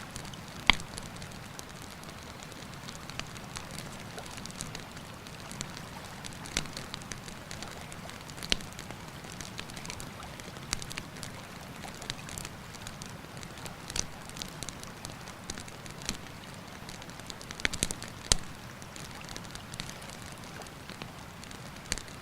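Wood campfire crackling, with sharp pops and snaps at irregular intervals, a strong one about a second in and a cluster near the 18-second mark, over the steady rush of a river.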